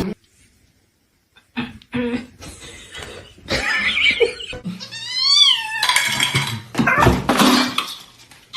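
A domestic cat meowing: one drawn-out meow that rises and falls in pitch about five seconds in, among shorter scuffling and breathy noises that start after a second and a half of silence.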